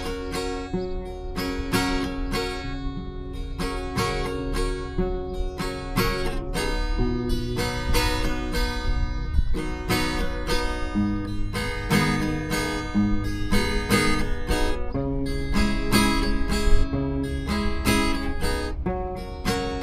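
Acoustic guitar music: an instrumental passage of plucked and strummed notes.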